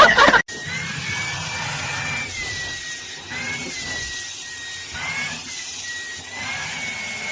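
A small electric motor running steadily over a hiss, its high whine wavering slightly up and down in pitch. It cuts in abruptly about half a second in, after a moment of louder sound.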